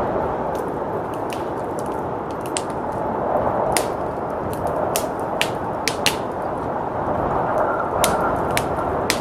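Wood fire in a fireplace crackling, with sharp pops at irregular moments, over a steady rushing of blizzard wind.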